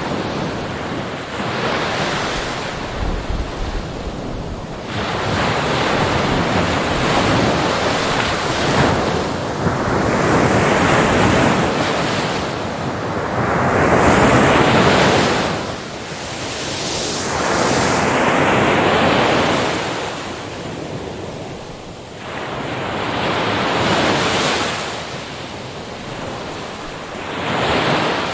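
Ocean waves breaking and washing up on a beach, surging and receding every few seconds, with wind rumbling on the microphone.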